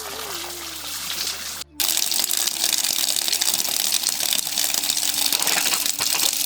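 Water rushing and splashing in a steady noisy wash; it cuts out for a moment just before two seconds in and comes back louder.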